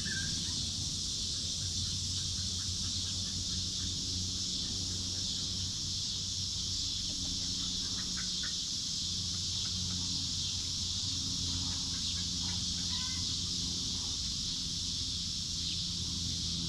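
Chickens clucking softly a few times over a steady high-pitched hiss and a low steady hum.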